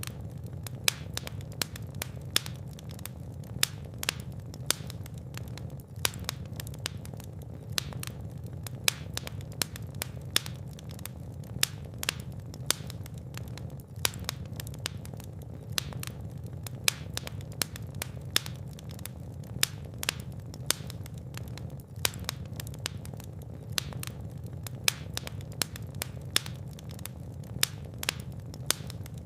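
Fire in a fireplace crackling and popping, with many sharp irregular pops over a steady low rumble of the flames.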